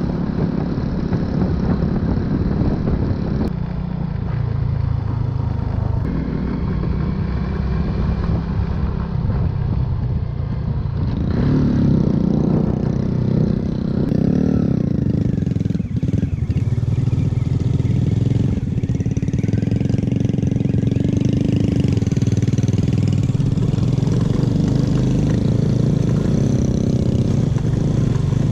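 Motorbike engine running while riding, its pitch rising and falling with the throttle around the middle.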